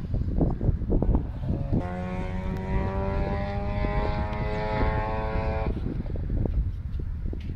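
Mazda RX-7's rotary engine heard from a distance as the car climbs the course: first a rough rumble with no clear note, then about two seconds in a steady engine note that climbs slowly in pitch for about four seconds before dropping away.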